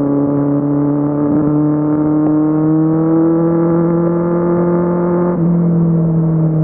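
Kawasaki Z750's inline-four engine pulling under throttle, its note rising slowly. About five seconds in the pitch changes abruptly and then slowly falls, as the throttle eases.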